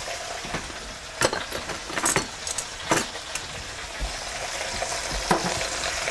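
Duck pieces and chopped vegetables sizzling in a hot enamelled cast-iron Dutch oven: a steady frying hiss broken by a few sharp pops of fat.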